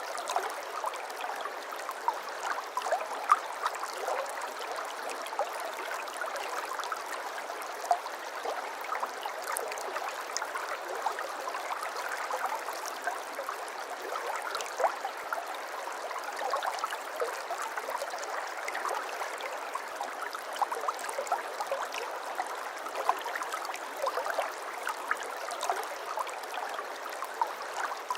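Shallow stream babbling steadily over stones, with many small splashes and plinks.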